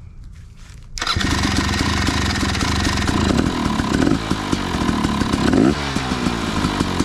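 KTM 300 two-stroke dirt bike engine catching about a second in and running, with several blips of the throttle that rise and fall. This is its first start on a freshly installed SmartCarb, with the choke on.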